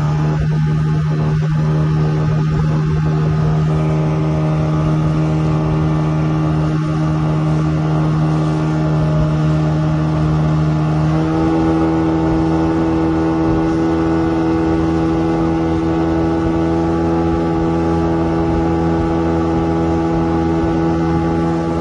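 Motorboat engine running steadily under load while towing a banana boat. Its pitch steps up about halfway through as the engine speeds up.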